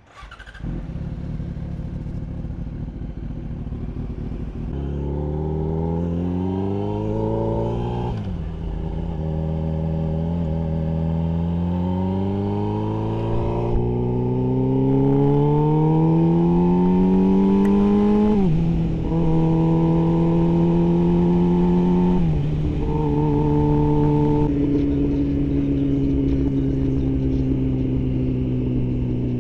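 Yamaha R6's inline-four engine under way and accelerating, its note rising slowly in pitch and dropping sharply three times, about 8, 18 and 22 seconds in, as it shifts up. After that it holds steady, then eases off and falls gently near the end.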